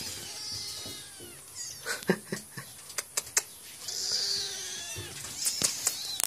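Kittens mewing in high, thin calls, with a scatter of sharp clicks and taps between them from their claws scrabbling at the sides of the bathtub.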